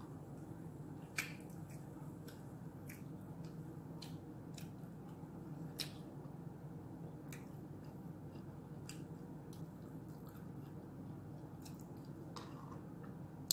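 Close-up eating sounds: wet mouth clicks and smacks while chewing, scattered irregularly over a steady low hum, with two sharper clicks about a second in and about six seconds in.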